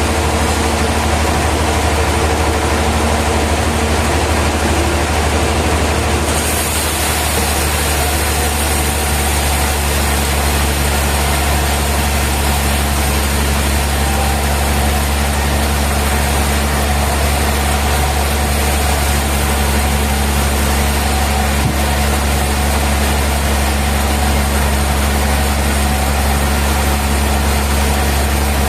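Sawmill machinery running steadily: a loud, constant low engine-like hum with a hiss over it. A brighter high hiss joins about six seconds in and holds.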